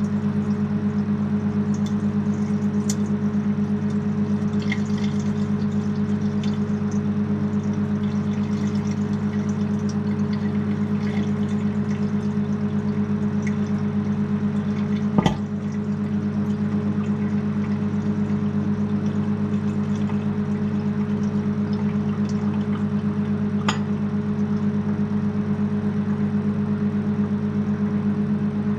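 Microwave oven running with a steady hum while butter heats inside, crackling faintly, with a sharp pop about fifteen seconds in and a smaller one near the end.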